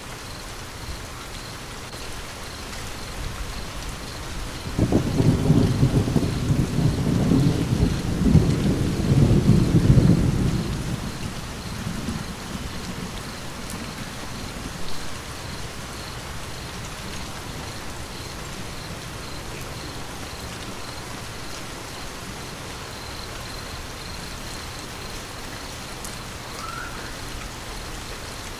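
Steady rain with a thunderclap about five seconds in that rolls on as a loud low rumble for several seconds before fading, with a couple of fainter rumbles after it.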